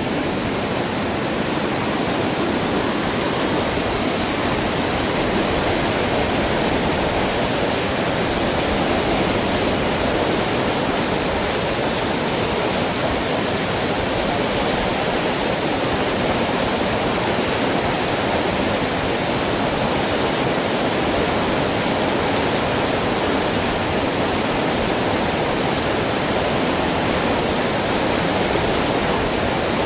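Fast-flowing, rising river water rushing steadily, a loud even roar with no breaks.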